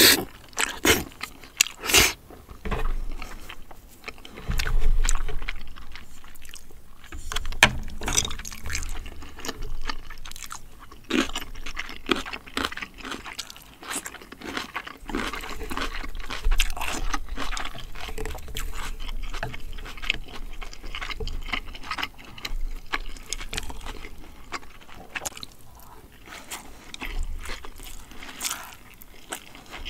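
Close-miked chewing and eating sounds of someone eating spicy braised chicken and cream spaghetti, with many short clicks and taps of a spoon and chopsticks.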